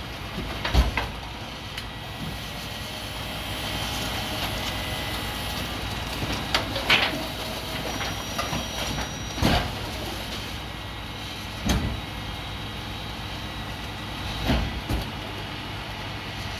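Truck engine running steadily, with occasional metal clanks and bangs a few seconds apart.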